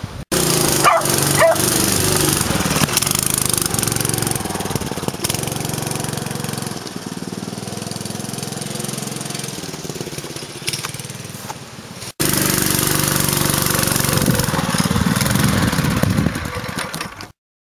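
Honda GX160 single-cylinder four-stroke engine running steadily on a belt-drive mini bike, loud, in two stretches broken by an abrupt cut about twelve seconds in. A short high-pitched cry about a second in, and the sound stops abruptly near the end.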